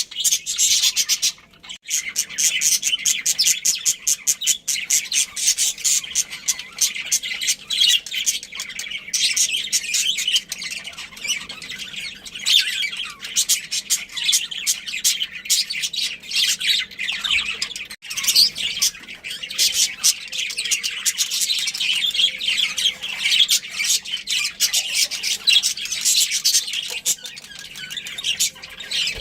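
Budgerigars chattering: a dense, continuous stream of rapid high chirps and squawks.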